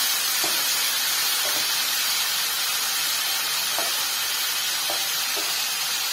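Tomato-onion masala sizzling steadily in hot oil in a nonstick kadai, stirred with a wooden spatula that gives a few faint scrapes against the pan.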